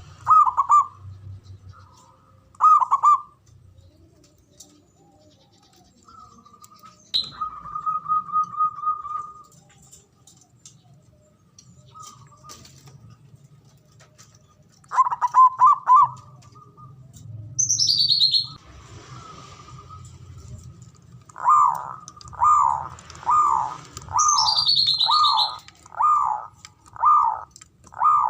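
Zebra dove (perkutut) cooing in short rolling phrases, with a quick trilled note partway through. Later comes a steady run of repeated coos, about one and a half a second.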